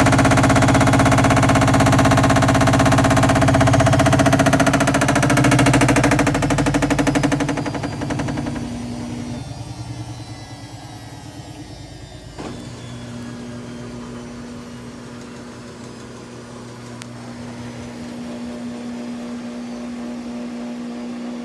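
All-in-one washer-dryer combo in its spin cycle, making a very loud noise that dies away after about seven or eight seconds and leaves a quieter steady hum.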